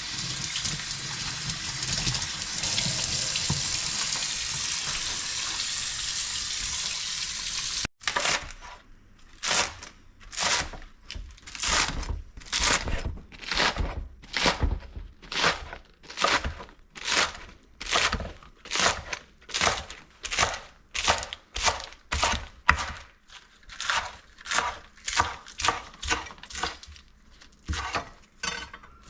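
Kitchen tap running steadily into a sink while green onion tops are washed. It cuts off about eight seconds in, followed by a knife slicing the green onion tops on a cutting board in quick, even strokes, about one and a half a second.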